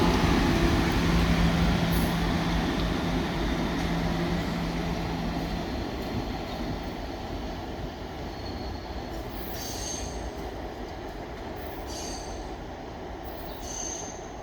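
Staten Island Railway electric train pulling away and fading, with a steady low motor hum for the first few seconds. Short high-pitched wheel squeals come three times in the last few seconds.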